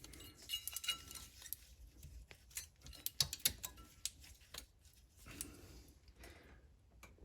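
Scattered light metallic clicks and clinks as a new rear brake hardware piece is handled and fitted at the top of the brake assembly.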